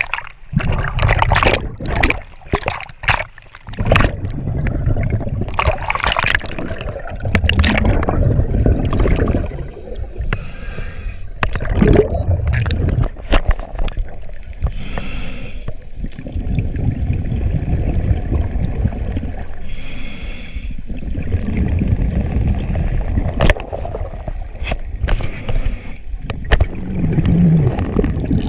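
Water gurgling and sloshing over a steady low rumble, with many sharp knocks in the first few seconds and a few short hissing bursts near the middle.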